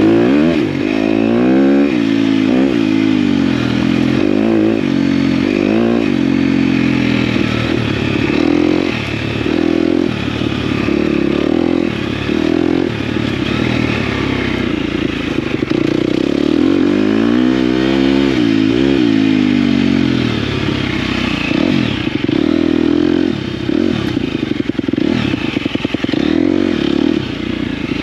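KTM dirt bike engine being ridden hard, its revs rising and falling again and again as the throttle goes on and off.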